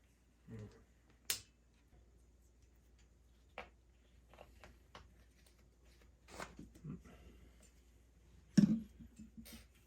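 Scattered clicks, taps and knocks of tools and bicycle parts being handled, with one louder knock about eight and a half seconds in.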